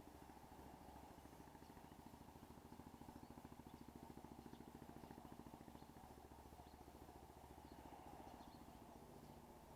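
Faint low hum of a small engine running steadily, with a light rapid pulsing to it.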